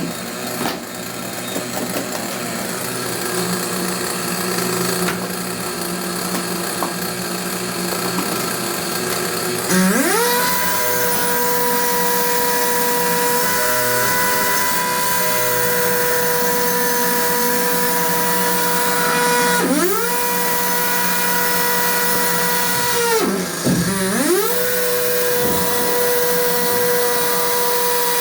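Electric power tool working: a steady low machine hum at first, then about ten seconds in the motor spins up to a high, steady whine. It winds down briefly twice, near twenty and twenty-four seconds in, and spins straight back up each time.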